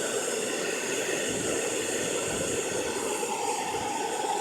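Hair dryer blowing steadily on its high setting.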